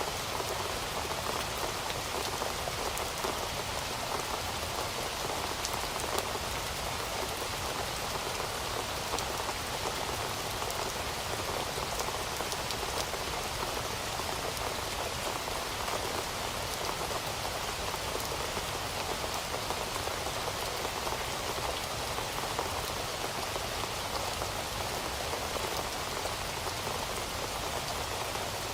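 Heavy rain falling steadily, a dense even patter of drops hitting a surface.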